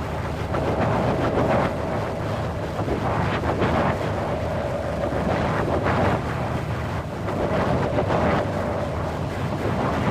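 Windy atmosphere: a steady rush of wind with gusts swelling and easing every second or two, and a faint steady tone underneath.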